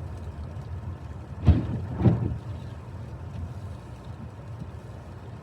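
Car cabin noise of a car moving slowly while being parked: a steady low rumble, with two short thumps about a second and a half and two seconds in.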